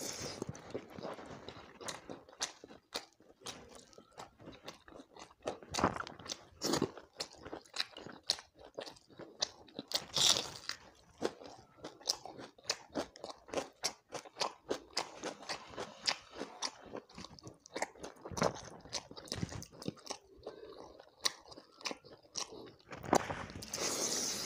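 Close-miked mouth sounds of a person chewing big handfuls of pakhala bhata (fermented rice in water): dense, irregular wet clicks and smacks, with louder bursts about ten seconds in and near the end.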